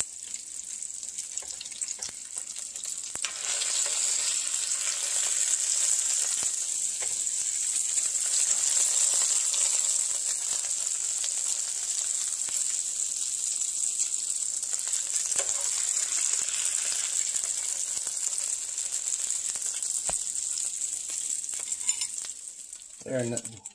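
Slices of deer heart frying in oil and butter in a frying pan: a steady sizzling hiss that grows louder a few seconds in and dies away near the end.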